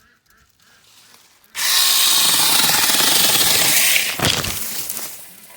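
Cordless 6-inch battery mini chainsaw starting suddenly about a second and a half in and running loud for about two and a half seconds, cutting into bush branches, then winding down.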